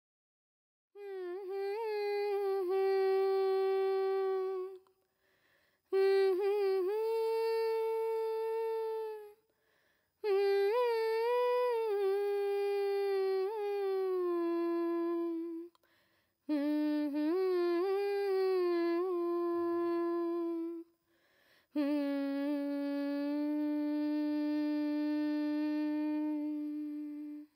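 A single voice humming a slow, wordless melody in five long phrases with short pauses between them. Each phrase bends in pitch and then settles on a held note, and the last note is held steady for several seconds.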